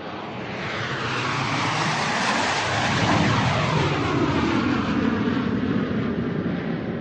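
Airplane flying overhead: a steady rushing engine noise that swells to its loudest about three seconds in, then slowly begins to fade.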